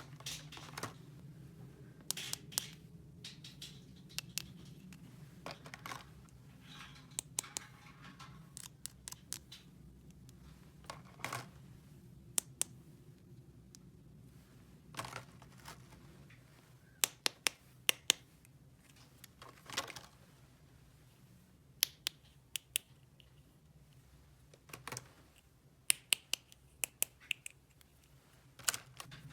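Small hard plastic pieces being handled, giving irregular sharp clicks and taps, some single and some in quick clusters, over a steady low hum.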